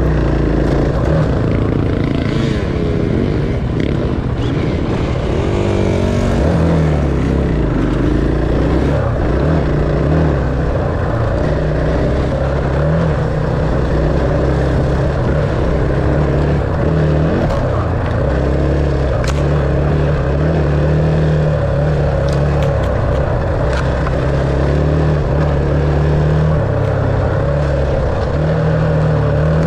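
Dirt bike engine running under way, its pitch rising and falling in steps with throttle and gear changes.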